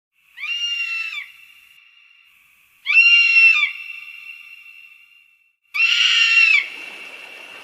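An animal giving a loud, high-pitched, screaming call three times, each just under a second long, with an echoing tail after each. Background hiss follows the last call.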